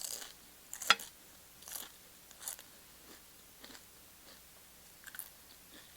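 Close-up crunching and chewing of tortilla chips: a sharp crunch at the start and a louder one about a second in, then softer crunches every second or so.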